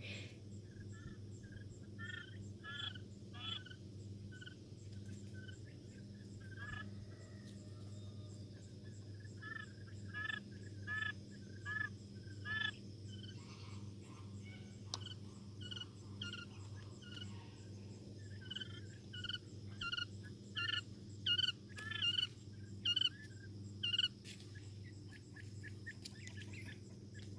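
Young Coturnix quail chirping: short, high peeps in loose clusters, getting busier and louder in the second half, over a steady low hum.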